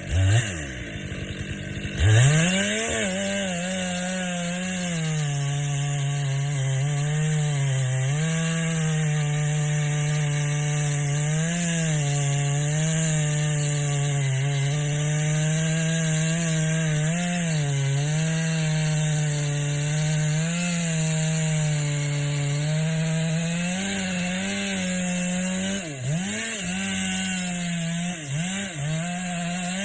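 Chainsaw blipped briefly, then revved up about two seconds in and held at full throttle cutting into the tree, its pitch sagging and recovering as the chain bites the wood. Near the end the pitch dips and rises sharply several times.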